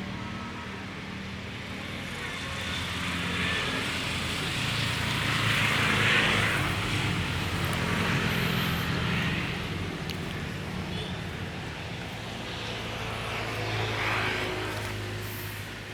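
Diesel locomotive engine of a passing passenger train, a steady low drone, with a rushing noise that swells and fades twice.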